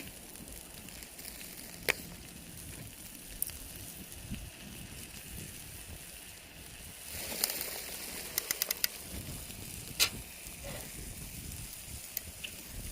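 Wood campfire burning with a steady hiss and scattered sharp pops and crackles, including a quick run of pops about eight seconds in and the loudest pop about ten seconds in.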